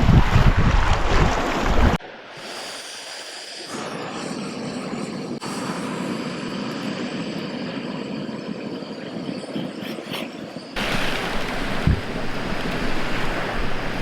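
Wind buffeting the microphone, then, after abrupt cuts, lake waves washing on the shore. The sound changes sharply about two seconds in and again near the end, where the wash grows louder.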